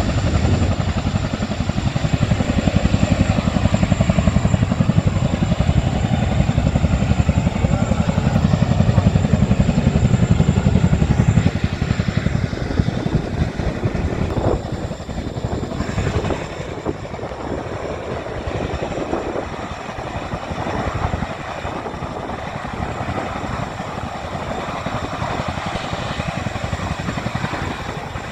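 Military helicopter's rotor beating fast and steadily. It is loudest for the first dozen seconds, then drops to a lower, still continuous level.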